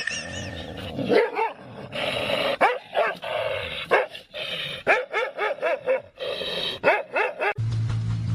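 A dog barking and yipping in a quick run of short, arching calls. Near the end it cuts off abruptly and a steady low hum takes over.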